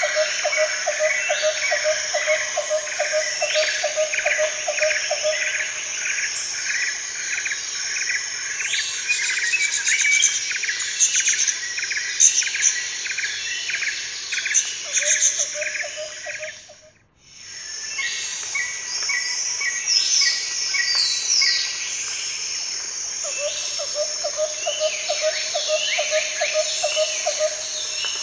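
Nature ambience of insects and birds calling densely: overlapping chirps and trills, with a lower pulsing call that comes in runs three times. The sound briefly fades almost to nothing a little past halfway, then resumes.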